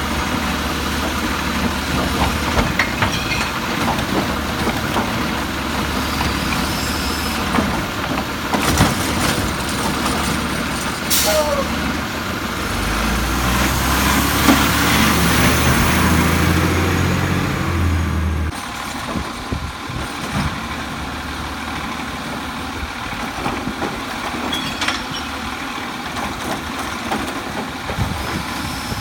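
Automated side-loader garbage truck with a Rapid Rail arm: its engine running steadily with scattered clanks and knocks. About halfway through, the engine grows louder for around six seconds, then drops back abruptly.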